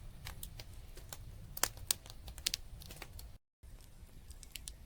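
Campfire crackling, with irregular sharp pops and snaps over a low rumble of wind on the microphone. The sound drops out briefly about three and a half seconds in.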